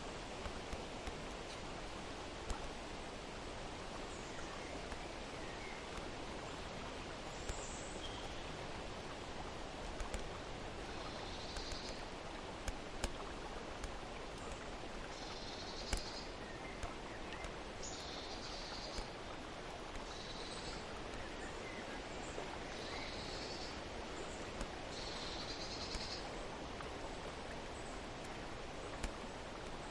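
Steady outdoor nature ambience, a rushing hiss like flowing water, with a bird giving short high calls over and over, about one every second or two from about a third of the way in.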